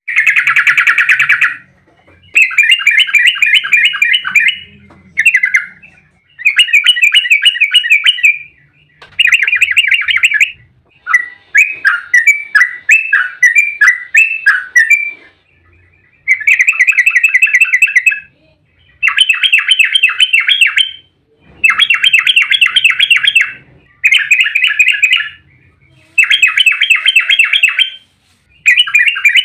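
Yellow-vented bulbul (trucukan) singing its loud, rapid bubbling chatter in short phrases, about eleven bursts of one to two and a half seconds each with brief pauses between. This is the fast, continuous 'ropel' song used as a lure to make other trucuk answer.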